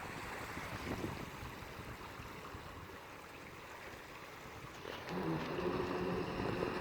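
Water and wind noise as an even hiss, joined about five seconds in by a steady low hum.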